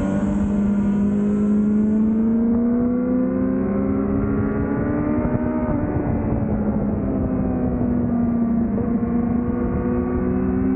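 A Yamaha YZF-R6's inline-four engine with an aftermarket Laser exhaust, heard from on board at speed on track. The engine pitch rises steadily as the bike pulls, drops and changes about six seconds in, then rises again, with a rough rush of wind and road noise underneath.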